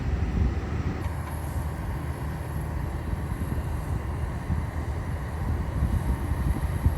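Boeing 777-300's twin turbofan engines heard as a steady low rumble, with a faint thin high whine that starts about a second in.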